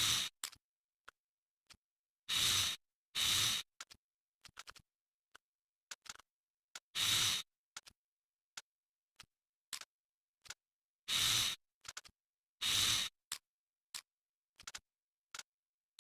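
Parts of a SCAR-L 5.56 rifle being handled during stripping or reassembly: scattered sharp metallic clicks and five short rasping sounds, each about half a second long, with silence in between.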